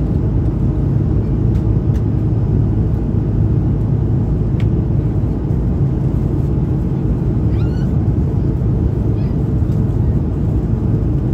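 Steady low rumble of an Airbus A330-300 cabin in flight: engine and airflow noise. A faint click about four and a half seconds in and a brief faint squeak about eight seconds in.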